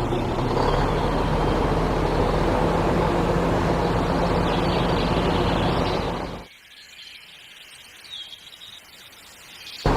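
A small motor running steadily with a low hum, cutting off about six and a half seconds in and starting again abruptly near the end.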